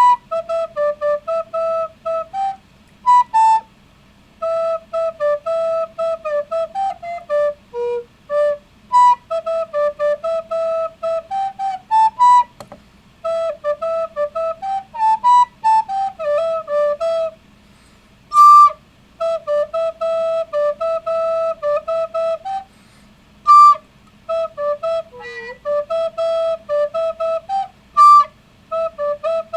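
Recorder playing a solo pop melody in short, detached notes, with a few loud, shrill notes standing out near the middle and toward the end.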